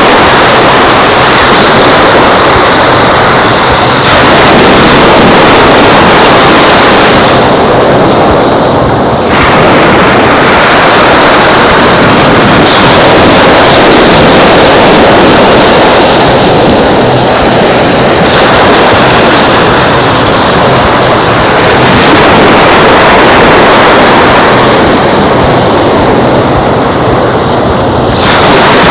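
Loud, steady rush of ocean surf mixed with wind buffeting the microphone, its tone changing abruptly every few seconds.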